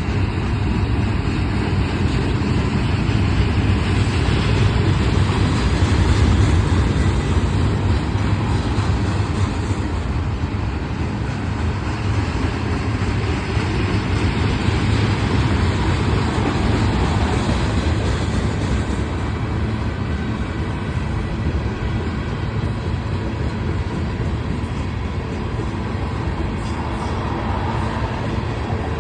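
Union Pacific manifest freight train rolling past: a loud, steady rumble of freight cars on the rails.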